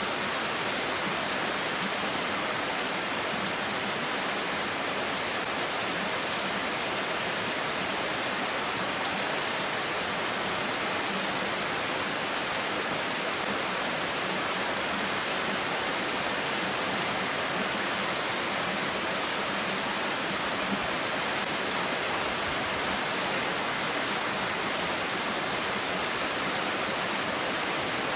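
Steady rain falling, an even hiss that holds the same level throughout, with no single drops or gusts standing out.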